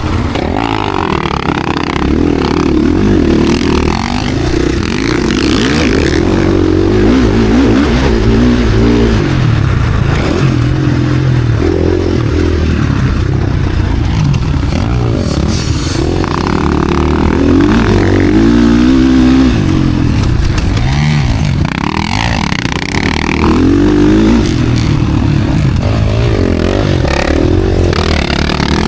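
KTM SX-F Factory Edition four-stroke motocross bike engine under race throttle, its pitch rising and falling over and over as the rider opens the throttle, shifts and backs off.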